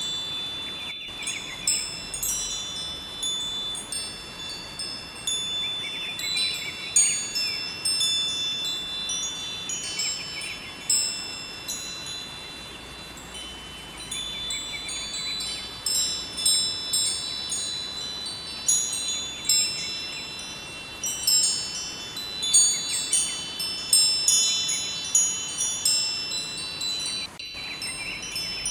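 Metal wind chimes ringing irregularly, with overlapping high tones that ring on and fade, over a steady rush of river water. The chimes thin out to a lull midway and then grow busy again.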